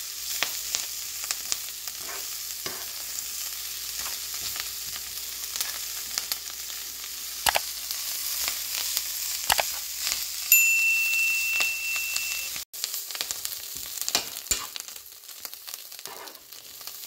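Canned mackerel varai with onion, coconut and greens sizzling as it is stir-fried in a nonstick pan, with scrapes and taps as it is turned over. A high, steady beep sounds for about two seconds a little past the middle.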